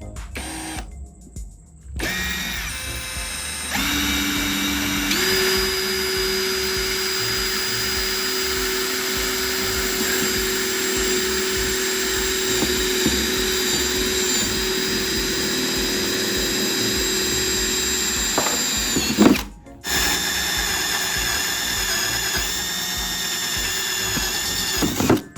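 Electric power tool motor, most like a drill, running with a steady whine that starts about two seconds in and steps up in speed shortly after. It stops briefly about three-quarters of the way through, starts again, and cuts off just before the end.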